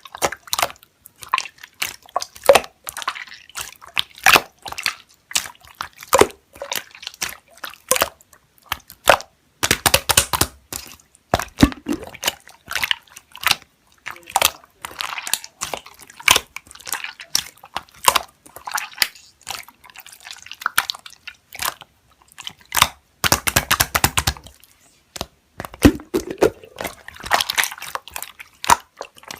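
Slime being squished, pressed and stretched by hand, making a dense run of sticky clicks, pops and wet squelches.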